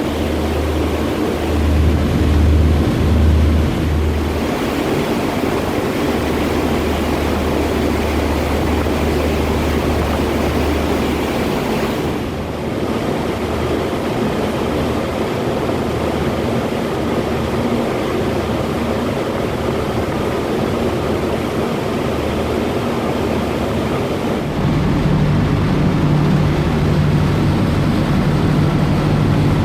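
Passenger ferry's engines running steadily under wind and water noise; the low engine hum shifts up in pitch and gets a little louder near the end.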